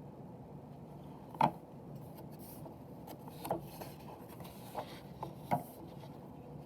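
Quiet room tone with about four brief clicks and knocks of something being handled, the loudest about a second and a half in.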